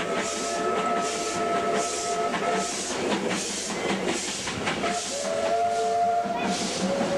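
Two W-class steam locomotives working hard on a climb, their exhaust beating slowly and evenly at about one puff a second. A multi-note steam whistle is sounding in long blasts: it stops a little over a third of the way in and blows again past the middle.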